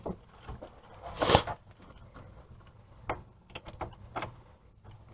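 Scattered clicks and clanks of hand tools working on the hub bolts, with a louder rattle about a second in and a few small clicks near the middle.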